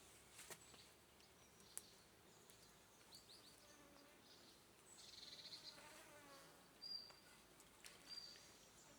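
Very quiet forest ambience: faint insect buzzing with a few short, high chirps, the buzzing strongest around the middle.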